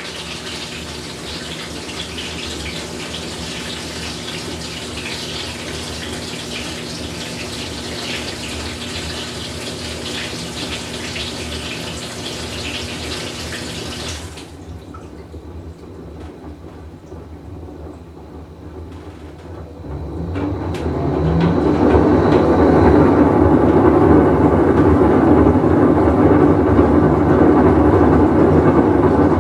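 Whirlpool Cabrio top-load washer filling with water: a steady hiss of inflow over the machine's hum, which cuts off suddenly about halfway through. After a few quieter seconds a louder, steady rumble builds up as the machine runs, from a washer with a bad bearing.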